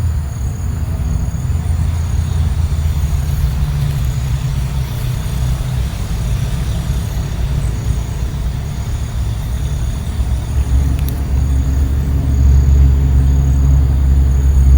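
A steady low rumble that grows louder about eleven seconds in, with faint, repeated high chirping above it.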